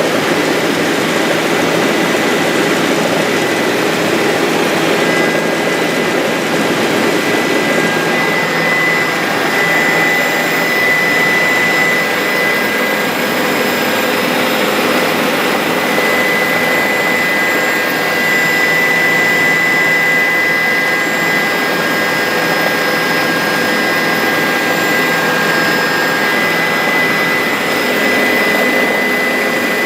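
A Bell 407 helicopter's turbine engine and rotors running steadily in flight: a constant loud rush with a few high, steady whining tones over it.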